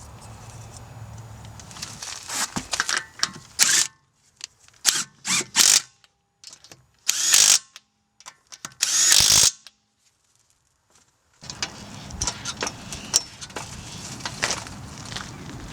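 A power tool, most likely a cordless impact wrench, running in several short bursts of about half a second each, with clinks of tools and parts between them.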